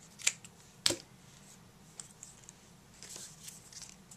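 Small paper-crafting handling sounds: two sharp clicks, about a third of a second and about a second in, then faint rustling and light ticks as foam adhesive squares and small cardstock pieces are handled.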